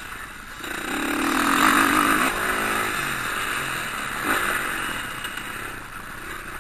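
Motocross motorcycles racing on the track, engines revving up and dropping off as they go by. The loudest pass comes about two seconds in, and a second rise follows a little after four seconds.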